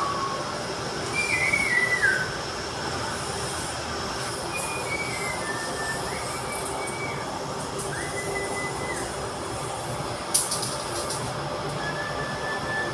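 Metal squealing in short high-pitched squeals that hold and step in pitch, over a steady mechanical noise, with a brief clatter of clicks about ten seconds in.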